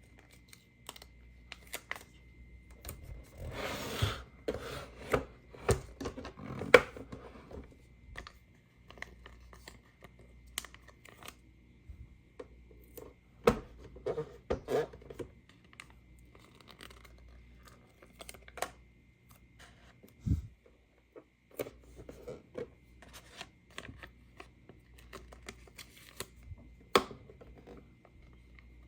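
Hands handling a plastic toy playset and its packaging: scattered sharp clicks and knocks of plastic parts, with a longer stretch of rustling and tearing about three to five seconds in.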